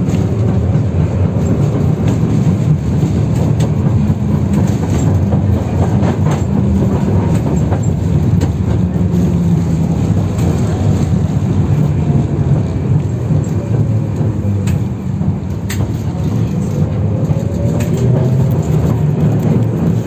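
Inside a 71-608KM tram car under way: a steady rumble of steel wheels on the rails, broken by scattered sharp clicks from the track. A faint whine dips and rises again a little past the middle.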